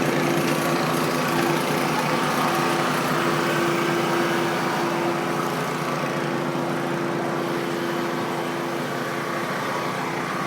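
A small engine running steadily at constant speed, with a level, unchanging hum.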